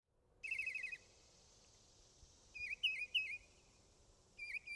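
A songbird singing: a quick trill of rapid notes about half a second in, then two phrases of three slurred, wavering whistled notes.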